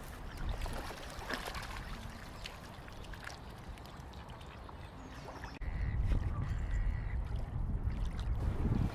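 Ducks quacking faintly over lakeside ambience; a little over halfway through the sound jumps abruptly to a louder low rumble.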